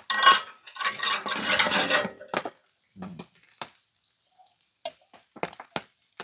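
A spoon scraping and stirring in a pot of hot food for about two seconds, followed by scattered light clinks and taps of the spoon against the pot.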